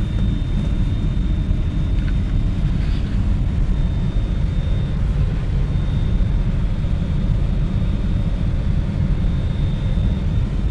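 Truck engine idling with the cab heater running, heard from inside the cab: a steady low rumble with a faint, thin high whine over it.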